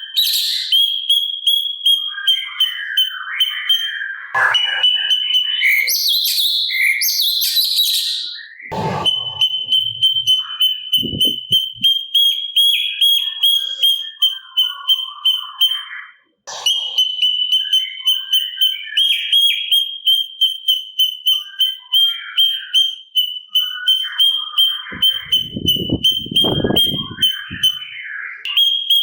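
Cucak cungkok singing: a high, rapidly repeated note, held near one pitch, with varied chattering phrases over it. The song breaks off for a moment about halfway through.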